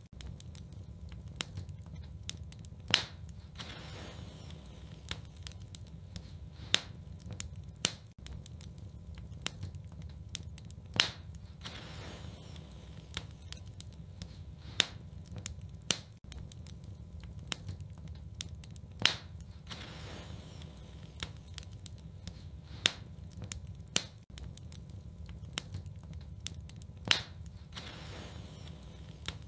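Wood fire burning in a fireplace, crackling with sharp pops at irregular moments over a low, steady rumble of the flames.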